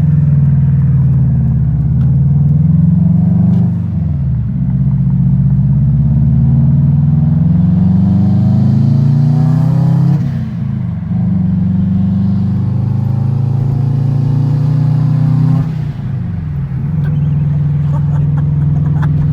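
Subaru WRX turbocharged flat-four engine through an aftermarket exhaust, loud, accelerating with its pitch climbing steadily and then dropping sharply three times as it shifts up through the gears.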